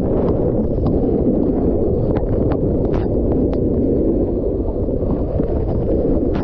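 Heavy wind buffeting the camera microphone: a loud, steady low rumble, with scattered sharp clicks.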